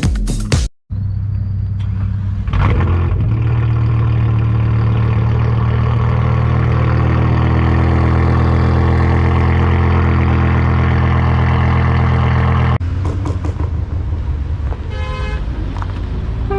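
Performance car's engine and exhaust running steadily at constant revs, loud, for about twelve seconds. After it stops, another car runs, and a car horn sounds briefly near the end.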